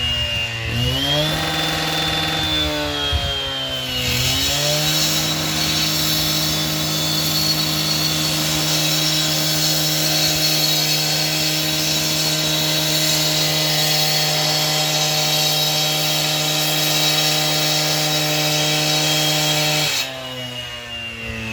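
Two-stroke gas-powered saw revved up, then held at full throttle through a long cut of about fifteen seconds. Its revs drop off near the end.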